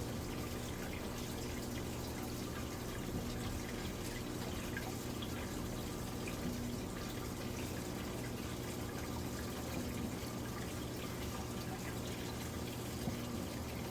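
Midea Wave-Agitator top-loading washing machine with water running and dripping in the drum, a steady wash of water noise over a low machine hum and small scattered drips.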